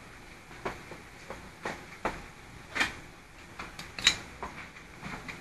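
Small metal parts of an air ratchet wrench head clicking and knocking as they are handled and fitted together: about a dozen light, irregular clicks, the sharpest about four seconds in.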